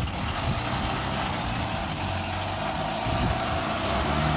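Vehicle engine running steadily at low speed, a low hum under an even hiss.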